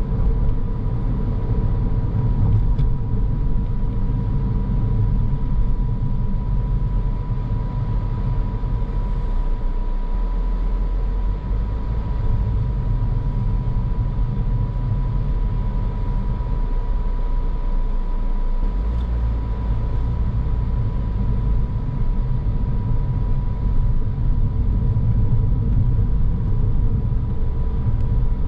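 Car driving along a road: steady low engine and tyre rumble, with a thin steady high tone running through it. The deepest part of the rumble shifts about two-thirds of the way through.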